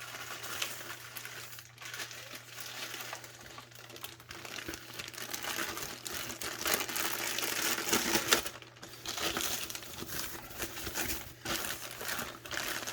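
Packaging crinkling and rustling as a boxed model subway car is pulled out and unwrapped, with a few light clicks. The rustling is busiest around the middle.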